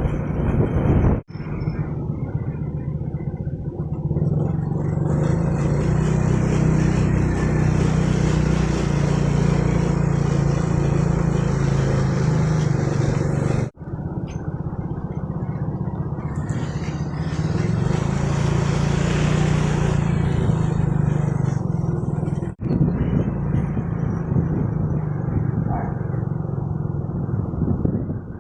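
A motorcycle riding along a road: its engine hums steadily under wind and road noise. The sound cuts off for an instant three times, about one, fourteen and twenty-three seconds in.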